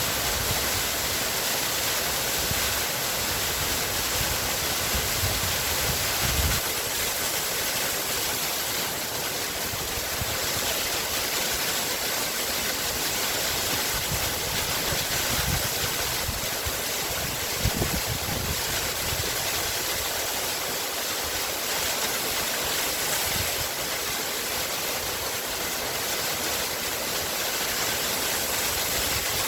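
Water of a waterfall falling and splashing in a steady, even rush with no let-up, with small low surges now and then.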